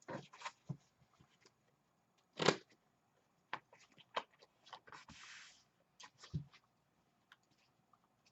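Quiet handling of tarot cards at a table: scattered soft taps and clicks, one louder knock about two and a half seconds in, and a short hiss about five seconds in.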